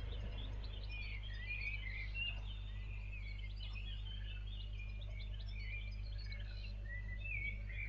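Many small birds chirping and twittering together in a dawn chorus, over a steady low hum.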